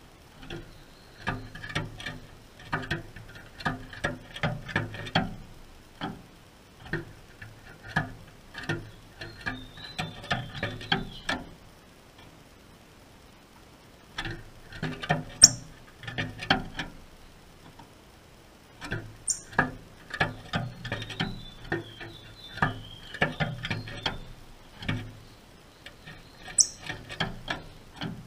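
A double-collared seedeater (coleiro) moving about its wire cage: bursts of rapid clicks, taps and flutters as it hops on the perches and cage floor, with pauses of about two seconds between bursts. A few sharp high ticks stand out, the loudest about halfway through.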